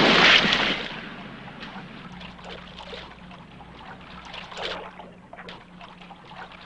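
A splash of water dying away in the first second, then faint scattered dripping and trickling of water.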